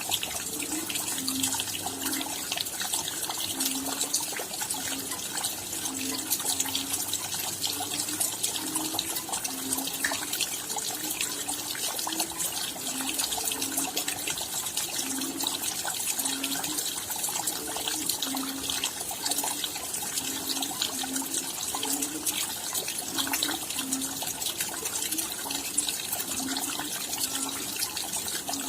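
Rain falling steadily as a dense spatter of many fine drop hits. Heavier, lower-pitched drops land irregularly one or two times a second over it.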